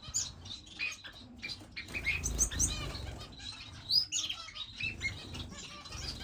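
Many small finches chirping in short, high notes, with wings fluttering as birds fly about a crowded bird room.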